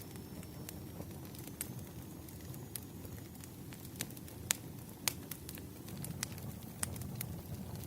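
Wood fire crackling: irregular sharp pops and snaps, a few louder ones past the middle, over a low steady rumble.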